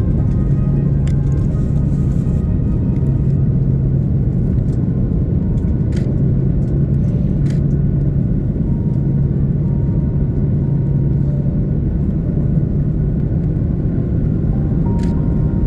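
Steady low drone inside an Airbus A330-300's cabin, from its GE CF6-80 engines and the airflow, with a constant hum and a few faint clicks.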